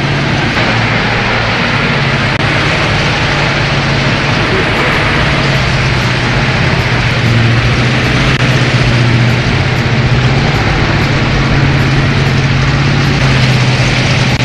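Heavy truck engine running loud and steady, a strong low hum under a rough mechanical clatter; it grows a little louder about halfway through.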